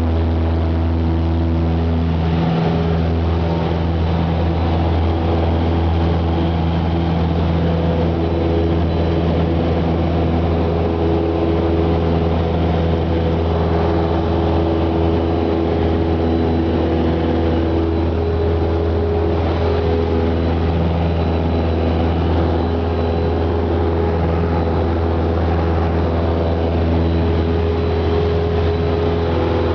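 Cessna 172's piston engine and propeller running steadily, a constant low drone with steady overtones.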